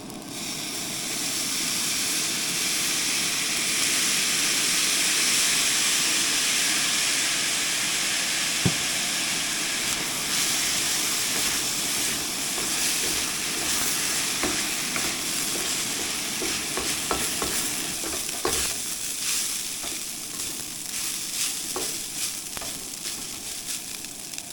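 Fried rice sizzling in a hot oiled pan as soy sauce hits it: the sizzle starts suddenly, swells, then slowly eases. A spatula scrapes and taps against the pan through the second half.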